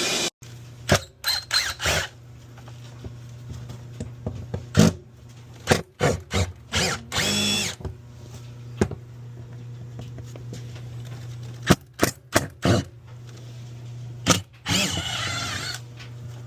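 Cordless drill-driver run in short bursts of about a second, with scattered clicks and knocks from tools being handled, over a steady low hum.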